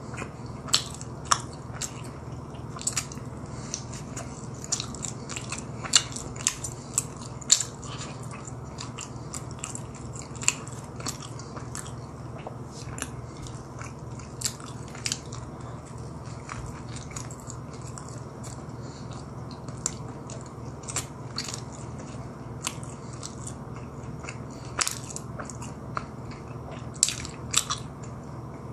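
Close-miked chewing and mouth sounds of a person eating a pretzel donut: wet smacks and sharp clicks, thickest in the first ten seconds and again near the end, sparser in between.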